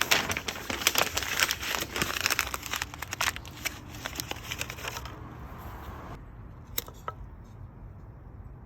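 A paper printout being crumpled and handled, making dense, irregular crackling for about five seconds before it dies down. Two sharp clicks follow about seven seconds in.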